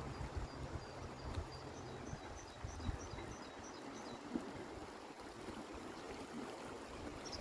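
A small bird giving a quick run of short, high chirps, about four a second, during the first three seconds. Underneath is a steady rushing outdoor background, with a low rumble in the first two seconds.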